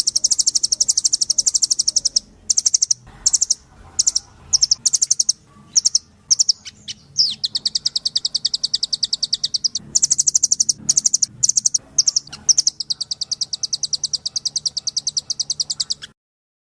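Blue nuthatch (munguk loreng) calling: rapid trills of high repeated notes in runs broken by short pauses, with a few single sharp notes in between; the sound cuts off suddenly near the end.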